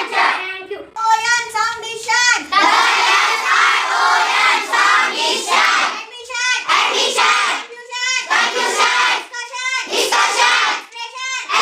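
Children chanting phonics sounds together in a sing-song rhythm, with long hissing 'sh' sounds between the voiced syllables.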